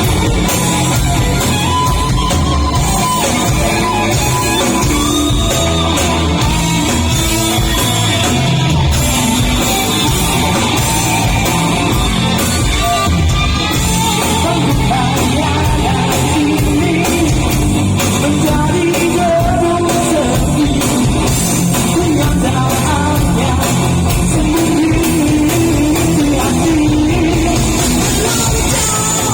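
Live rock music from a busking act: a male singer belting in an old-school rock style, with a strained, shouted edge, over guitar-backed band accompaniment.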